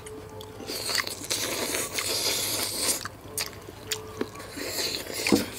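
Close-miked chewing and crunching of steamed turtle, in two stretches, with a few small sharp clicks between them.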